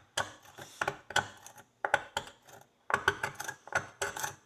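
A metal tool scraping and picking packed dirt out of the groove of a wet pony horseshoe, metal on metal: an irregular run of sharp scrapes and clicks, several a second, as the loosened grime flakes off.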